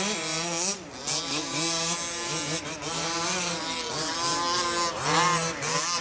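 Small two-stroke engines of several 1/5-scale gas RC trucks racing, their pitch repeatedly rising and falling as they rev and back off, with a brief dip in level about a second in.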